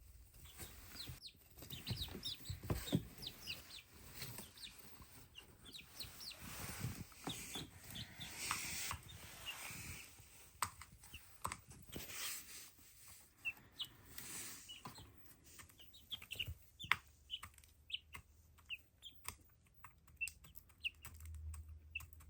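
Young black chickens giving many short, high peeps and soft clucks, with scattered light knocks and rustles.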